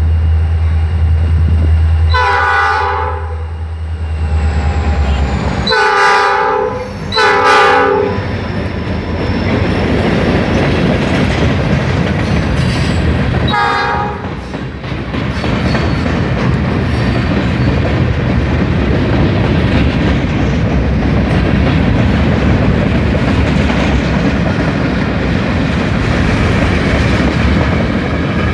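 Norfolk Southern freight train passing close by. The diesel locomotive's engine drones for the first few seconds while its air horn sounds a chord: one long blast, two shorter ones, then a brief toot about 14 s in. After that come the steady rumble and clickety-clack of the freight cars rolling past.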